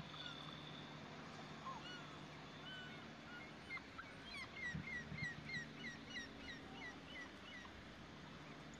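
A bird calling a quick run of about ten short, hooked chirps, about three a second, in the middle, with other scattered chirps around it, over a steady low machinery hum and a couple of dull knocks.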